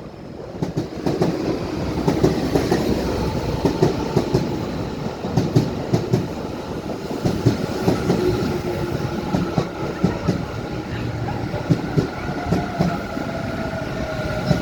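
Tobu Railway electric train running on the line, its wheels clicking over rail joints with a continuous rumble. From about halfway through a steady whine joins in, and another tone sinks in pitch near the end.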